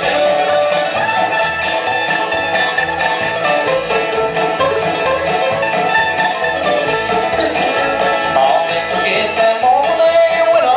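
Live bluegrass band playing an instrumental passage with plucked strings over a steady bass beat.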